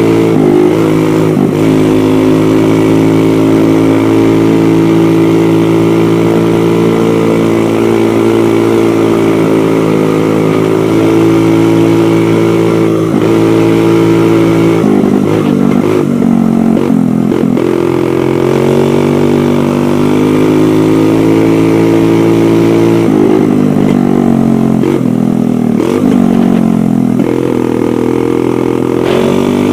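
Dirt bike engine running under way. Its note holds steady for about the first half, then drops and climbs again a few times in the second half as the throttle opens and closes.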